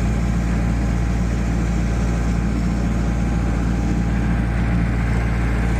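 15 kW diesel standby generator running steadily under light load, a constant low engine hum.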